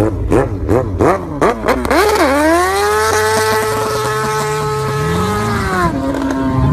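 An engine revved in a string of quick throttle blips, about three a second, then climbing and held at high revs for several seconds before dropping off near the end.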